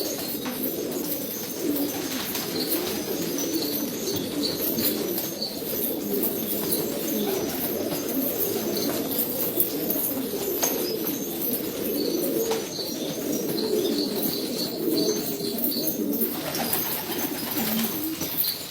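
A flock of domestic pigeons cooing together: many low coos overlapping into a steady, continuous murmur.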